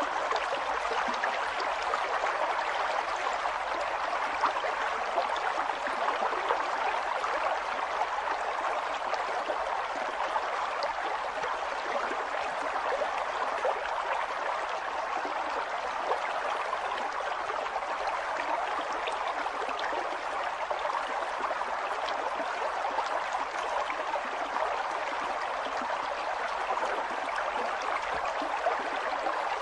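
River water flowing over rocks: a steady rushing and gurgling with fine splashing detail.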